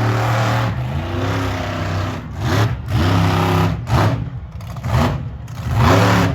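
Monster truck engine revving hard in repeated bursts, the pitch climbing and dropping back several times.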